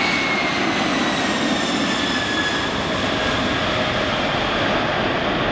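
Boeing 747-400 jet airliner's four turbofan engines running during a low pass and go-around, a loud steady jet roar with a high whine that slowly falls in pitch as the aircraft passes.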